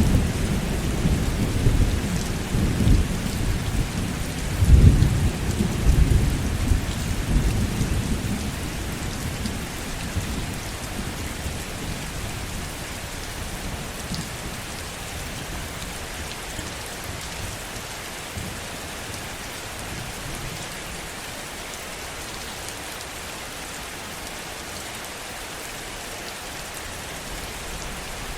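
Heavy rain falling steadily, with a roll of thunder rumbling through the first eight seconds or so. The rumble is loudest about five seconds in and then dies away, leaving only the rain.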